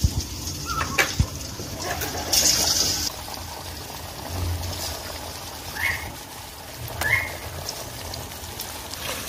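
Marinated chicken pieces dropped into hot oil in a metal kadai, frying with a steady sizzle.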